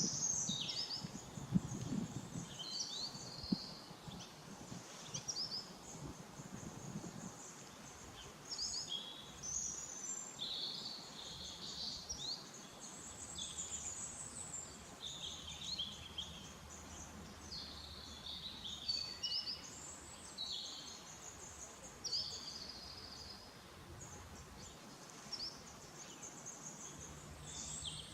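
Small songbirds singing and chirping, with short high trills and phrases overlapping throughout. A faint steady low hum comes in about halfway through.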